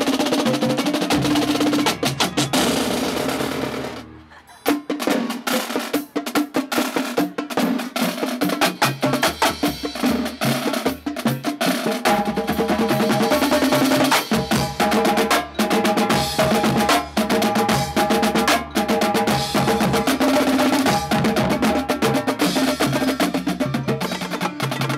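Marching band drumline playing fast and loud: rapid snare strikes and rolls over pitched tenor and bass drums. The playing breaks off briefly about four seconds in, then picks up again.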